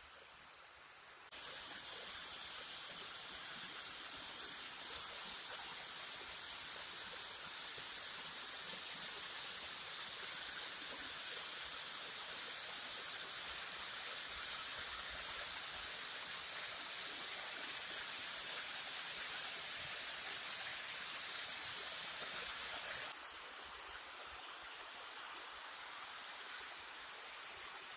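Waterfall: a steady rush of falling water. It steps up suddenly about a second in and drops back a little near the end.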